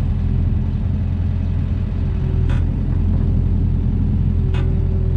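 Mini excavator engine running steadily under work, with a steady whine above the engine hum that grows stronger near the end. Two short sharp noises come about halfway through and again near the end.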